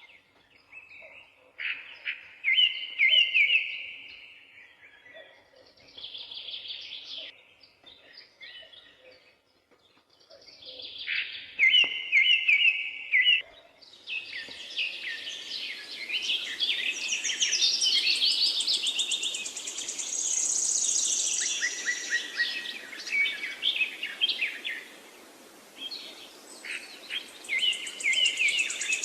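Several songbirds singing repeated phrases and trills. About halfway through, a steady hiss joins in and the birdsong becomes denser and higher.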